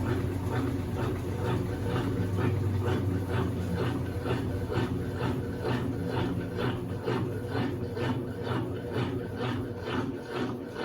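Consul 8 kg top-load washing machine running its wash cycle: the load churns in water with a rhythmic swish about three times a second over a low motor hum, and the hum fades about four seconds in.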